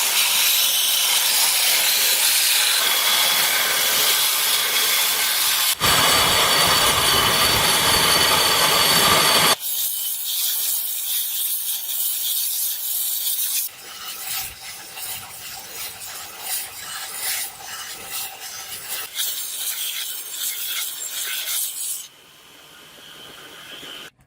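Abrasive scraping and rubbing of a tool working iron, in several cut-together stretches that change abruptly about 6, 10, 14 and 22 seconds in. It is loud and continuous for the first ten seconds, then quieter and more broken up.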